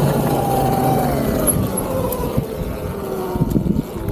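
Electric dirt bike's motor whining, its pitch falling slowly across the few seconds as the bike eases off, over a rough low rumbling noise.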